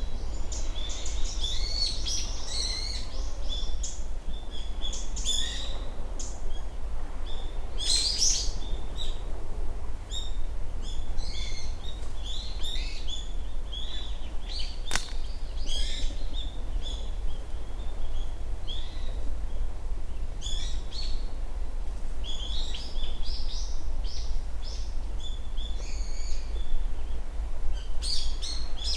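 Small birds giving many short, high-pitched chirps and calls, over a steady low rumble. A single sharp click comes about halfway through.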